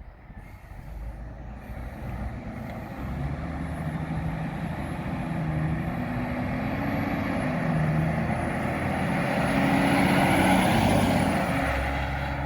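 A heavy vehicle's engine approaching and driving past, building to its loudest about ten seconds in, then fading.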